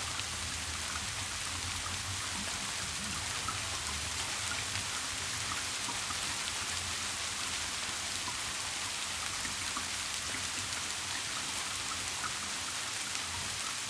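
Steady rain falling, an even hiss with scattered small drops pattering, over a faint low steady hum.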